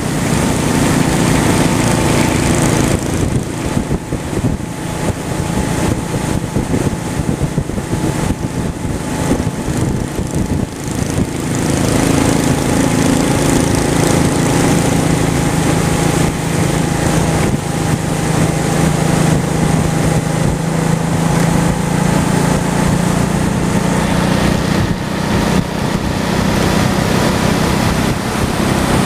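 Honda Shadow V-twin motorcycle engine running steadily under way, with wind rushing over the microphone. The wind noise eases for several seconds a few seconds in, then picks up again.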